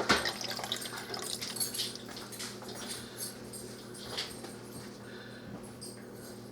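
Faint scattered clinks and knocks of a utensil against a pot of soup, with a steady low hum.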